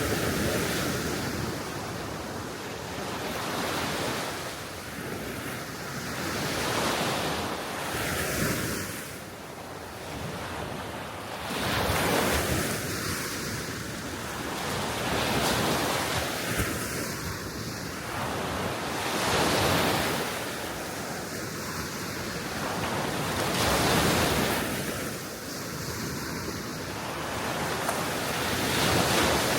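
Small Baltic Sea waves breaking and washing on the shore, a surge about every three to four seconds, with wind blowing across the microphone.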